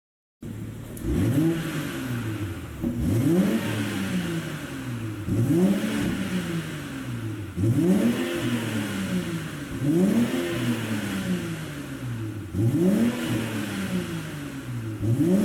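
BMW X7 xDrive40i's turbocharged 3.0-litre inline-six, fitted with a pop-and-crackle exhaust tune, being revved repeatedly while stationary: about seven blips, each climbing quickly and then falling back as the revs drop, starting about half a second in.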